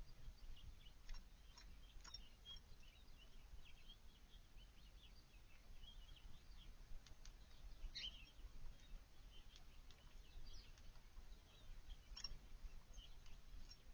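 Faint, scattered chirps and tweets of small backyard songbirds, with a few sharp clicks now and then over a low background rumble.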